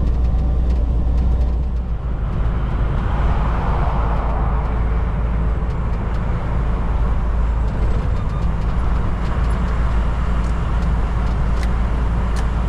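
Semi-truck heard from inside the cab while driving: a steady low engine and road drone, with a hiss of tyres on the wet, snowy road that swells about two seconds in.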